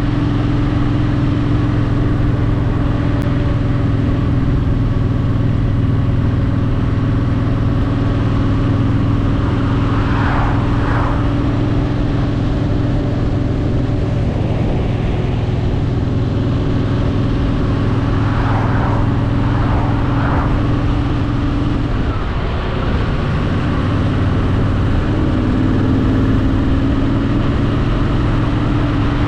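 Honda Shadow VT750's V-twin engine running steadily while riding, with wind noise. About 22 seconds in, the engine note dips briefly and then slowly climbs in pitch.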